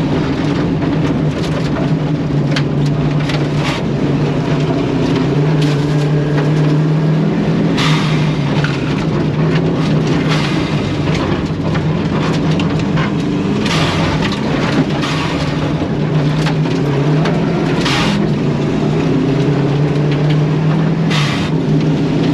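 Inside a Subaru rally car driven hard on a gravel stage: the engine runs loud, its pitch rising and falling through gear changes and corners. Loose gravel and stones crack and rattle against the car in many sharp hits.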